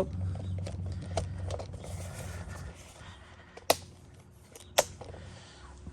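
Faint scraping and handling noises, with two sharp clicks about a second apart near the middle.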